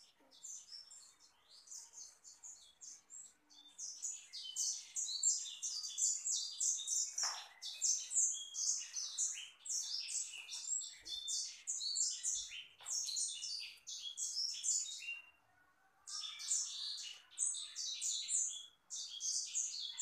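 Small birds chirping and twittering in quick, high-pitched runs of short notes, almost without a break except for a short pause about three-quarters of the way through.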